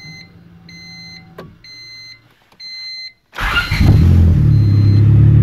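Four quick dashboard warning chimes, then the turbocharged Honda D16 engine cranks and fires about three and a half seconds in and settles into a steady idle: its first start on a new Hondata base map.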